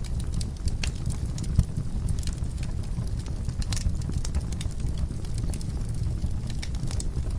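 Wood fire crackling, with many small irregular snaps and pops over a steady low rumble; one louder pop about a second and a half in.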